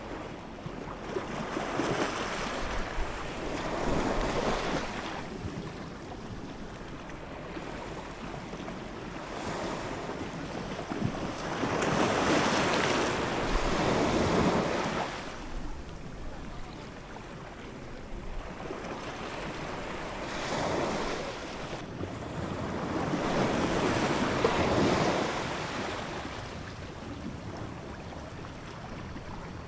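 Ocean waves breaking and washing in, swelling and ebbing in slow surges, about five times, the biggest a few seconds long about twelve seconds in.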